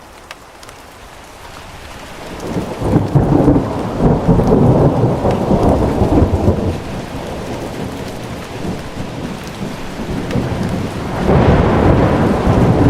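Steady rain with rolling thunder: a deep rumble builds about two seconds in and fades after about seven, and a second roll starts near the end.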